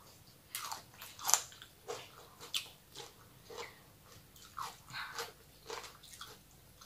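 Close-up chewing of crunchy shredded green mango salad: short, irregular crunches and mouth sounds, about one or two a second.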